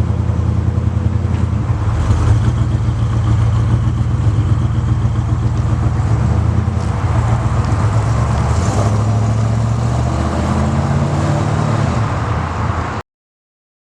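1990 Chevrolet C/K pickup's engine running steadily. The sound cuts off abruptly near the end.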